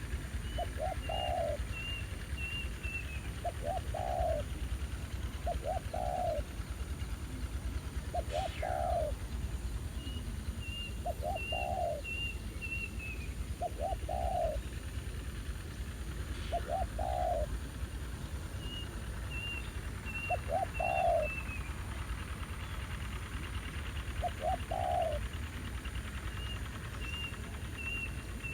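Spotted doves cooing over and over, a short phrase of a few quick notes ending in a longer coo about every two seconds. A higher, quick series of short chirps from another bird comes in a few times.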